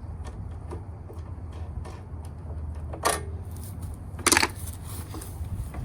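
Handling clatter: light clicks and rattles, with two louder knocks about three and four seconds in, the first with a brief metallic ring.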